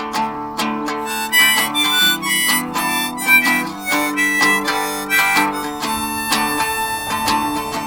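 Harmonica playing an instrumental solo over strummed acoustic guitar, notes held and bent.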